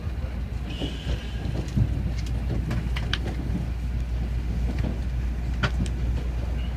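Inside a Tokaido Shinkansen carriage: a steady low rumble with scattered short clicks and knocks.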